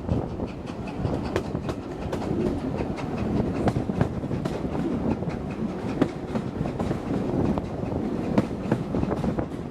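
Coaches of a steam-hauled passenger train running along the line: a steady rumble with wheels clicking over the rail joints again and again.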